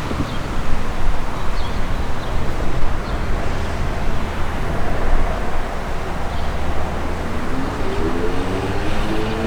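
A vehicle engine running steadily, with a pitched drone that starts to rise near the end.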